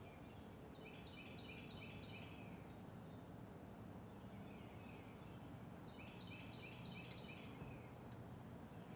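Songbird singing two phrases of about five quick descending notes each, a few seconds apart, with softer twittering between them. A faint steady low rumble of background noise runs underneath.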